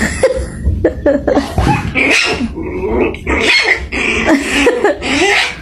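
A dog vocalizing in a loud, continuous run of short sounds that rise and fall in pitch.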